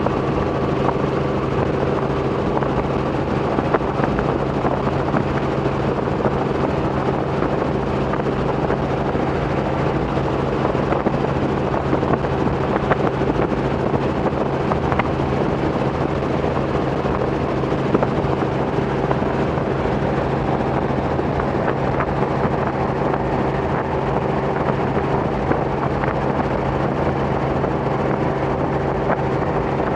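Robinson R44 helicopter in cruising flight: its piston engine and rotors make a steady, even drone with a constant low hum that holds unchanged throughout.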